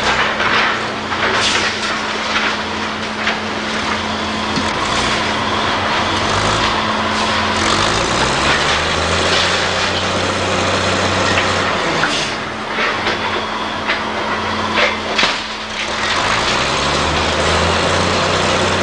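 Diesel engine of heavy demolition machinery running and revving up twice, over a constant noisy clatter with sharp knocks.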